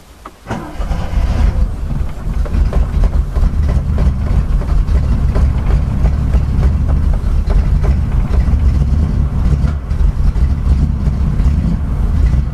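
Triumph Stag's 3.0-litre V8 catching about half a second in and running steadily on choke, heard from inside the cabin. This is the first start after an engine overhaul with new timing chains and head gasket.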